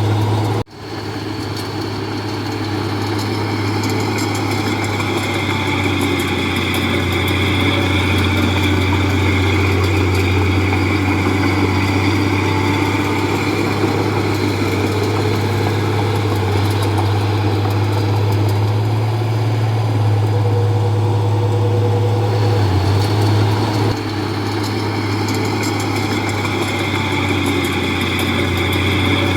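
Komatsu D31P bulldozer's diesel engine running steadily with a strong low hum. The sound drops out abruptly for a moment under a second in, then picks up again.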